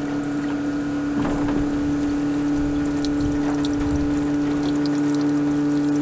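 Electric fuel pump running with a steady hum while fuel runs out of the line, flushing old fuel from a truck that has sat for months.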